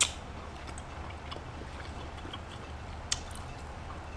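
A person quietly chewing a mouthful of baby cucumber, with faint scattered wet mouth clicks over a steady low hum, and one sharp click right at the start.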